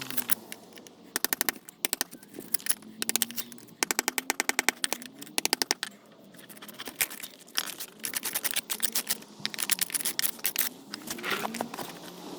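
Power tool hammering in quick bursts of rapid, evenly spaced strikes with short pauses between, breaking out old loose pointing between patio slabs.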